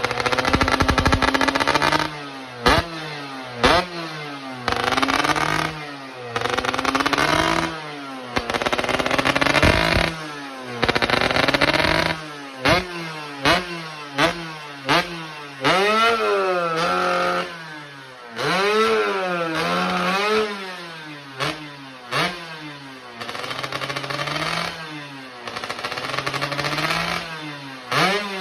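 Yamaha F1ZR two-stroke single-cylinder engine being revved again and again through an aftermarket R&R full-press 'standard racing' exhaust. Quick sharp throttle blips and longer rising-and-falling revs, falling back to idle between each.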